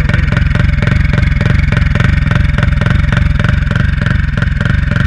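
Turbocharged Honda Titan 160 single-cylinder four-stroke engine idling steadily with an even pulsing beat, giving no turbo flutter.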